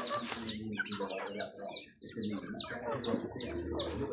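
Chicks peeping: a dense run of quick, high chirps that each fall in pitch, with a brief lull about halfway through.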